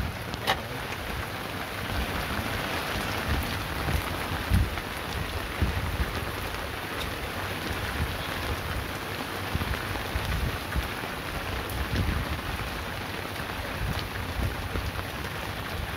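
Heavy rain pouring steadily on and around a small fishing boat, with scattered low thumps.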